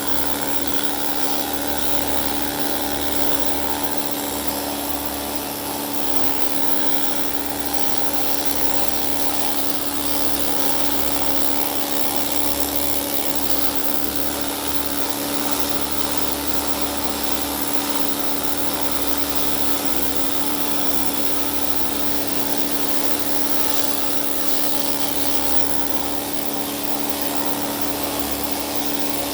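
Pneumatic needle scaler running continuously against an LS engine block, hammering off old grime and scale as the block is cleaned.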